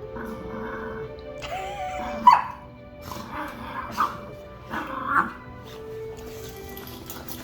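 Dogs play-fighting with short grumbling growls and yips over background music, with one sharp, loud yip a little over two seconds in.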